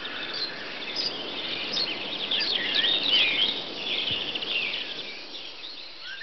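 Several birds chirping and singing, many short high calls overlapping, busiest in the middle and thinning out toward the end.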